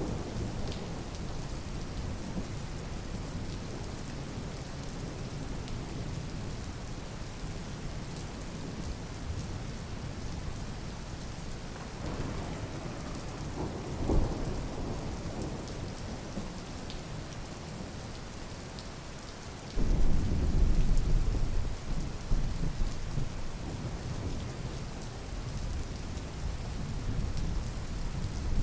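Steady rain falling, with low rumbles of thunder. The loudest rumble comes on suddenly about two-thirds of the way through and rolls for a few seconds.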